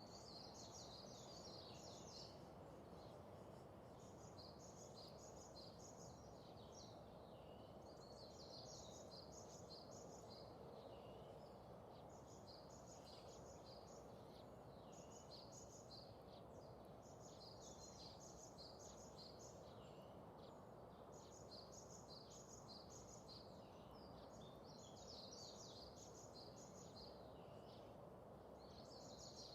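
Faint birds chirping, rapid high chirps in clusters every couple of seconds, over a low steady hiss.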